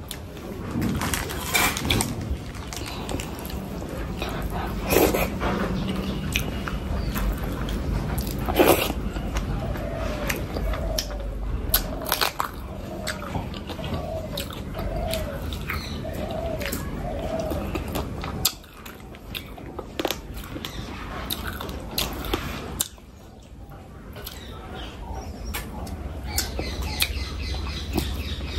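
A person chewing and biting food close to the microphone, with irregular sharp clicks of the mouth and teeth.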